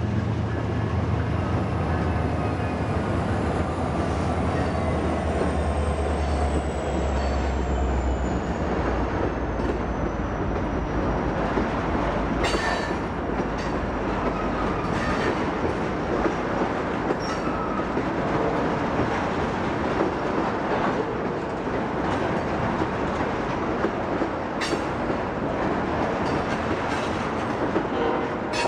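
Freight train passing. Diesel locomotive engines drone for the first eight seconds or so, with a high whine falling slowly in pitch. Then the cars roll by with a steady wheel rumble and occasional sharp clicks over the rail joints.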